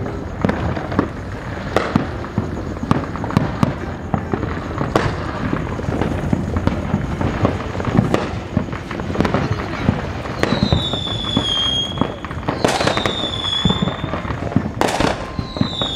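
Fireworks going off all around: a continuous crackle of pops and bangs, with three high whistles, each falling in pitch, in the second half.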